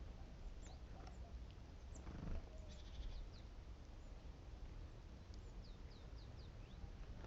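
Great tits calling with many short, thin, high chirps, with a quick buzzy trill about three seconds in. A brief lower sound just after two seconds is the loudest moment.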